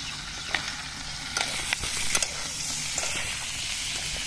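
Potatoes frying in a wok over an open wood fire: a steady sizzling hiss with a handful of sharp pops and crackles in the first half.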